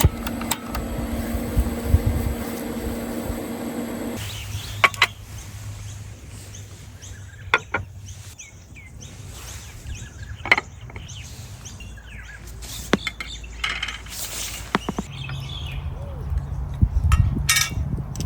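A steady mechanical hum that cuts off about four seconds in, then scattered light clinks and knocks of camp dishes and utensils being handled.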